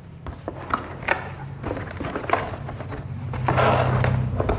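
Light clicks and knocks of the washing-machine trolley's plastic and metal parts being handled, then a louder rustling of packaging from about three and a half seconds in.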